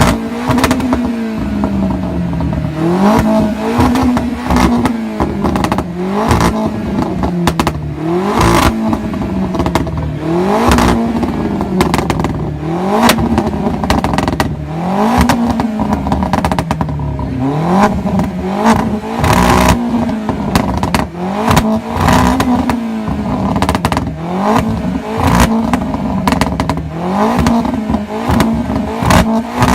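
A car engine revved again and again, its pitch rising and falling about every two seconds, with frequent sharp pops and cracks between the revs.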